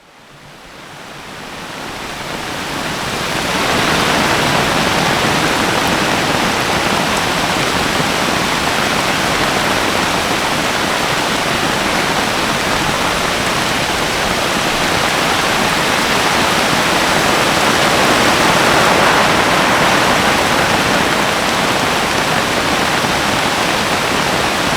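Heavy rain pouring down steadily, fading in over the first few seconds.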